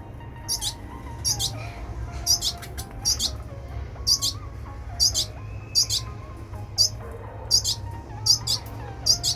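Red siskins giving short, high chirps, often in quick pairs, repeating about once or twice a second, over soft background music.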